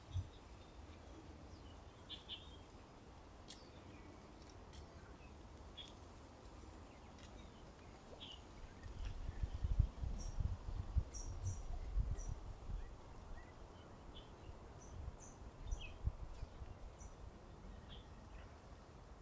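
Small birds giving scattered short, high chirps over a steady outdoor hush. A low, uneven rumble rises about halfway through and fades again.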